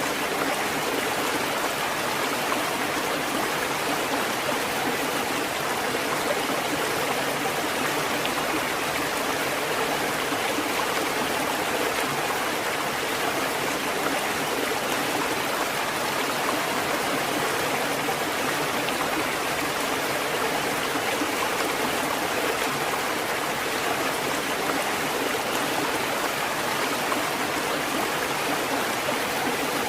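Water fountain running: a steady, unbroken splash and trickle of falling water.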